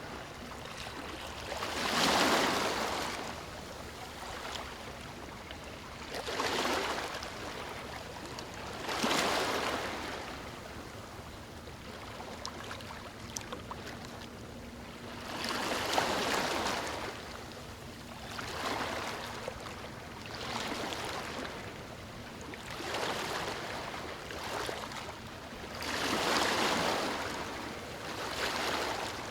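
Ocean surf washing onto a beach: waves break and rush in as a surge of noise every few seconds, about nine times, over a steady hiss of water.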